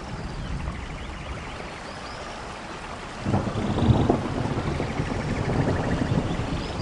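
Steady rain with a roll of thunder that breaks in about three seconds in and rumbles on.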